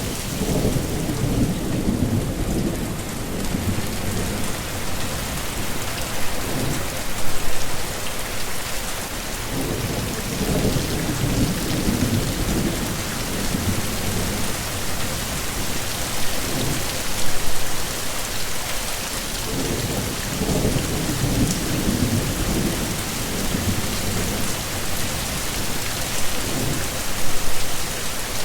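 Heavy rain falling steadily, with low rolls of thunder rumbling in three times, about ten seconds apart.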